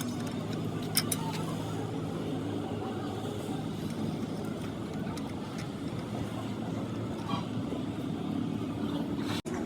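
A vehicle engine running steadily at idle, a low even hum, with two sharp clicks about a second in.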